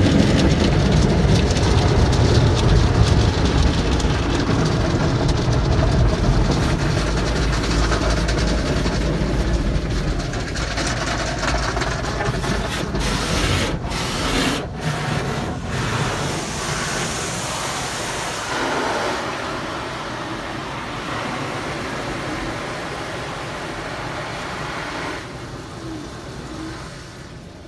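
Automatic car wash heard from inside the car: a steady rumbling rush of water spray and wash machinery against the body, slowly growing quieter through the passage.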